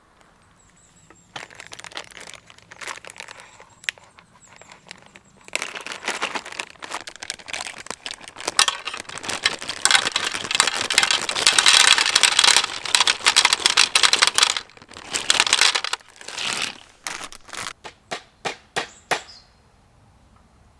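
Crinkling and crackling handling noise, like stiff paper or foil being crumpled. It grows dense and loud in the middle, then breaks into separate crackles before stopping.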